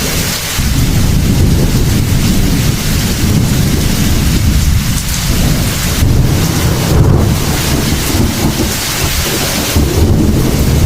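Heavy rain falling steadily with a continuous rumble of rolling thunder underneath.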